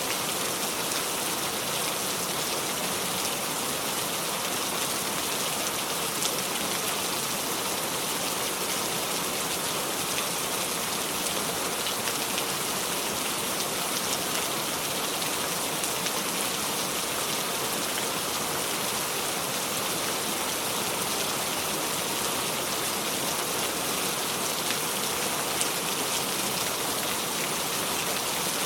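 Steady heavy rain falling, an even hiss with faint scattered drop ticks, with no thunder.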